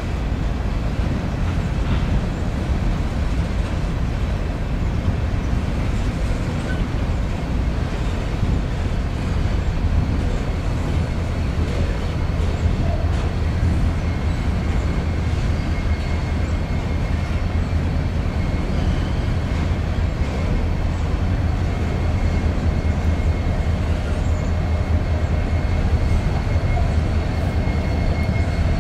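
Loaded coal hopper cars of a slow freight train rolling across a railway bridge: a steady low rumble of wheels on rail. A faint, high, steady wheel squeal joins about halfway through.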